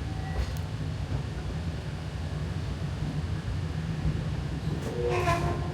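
Magic Kingdom steam train running along the track, a steady low rumble heard from aboard. A short sound with several pitches comes near the end.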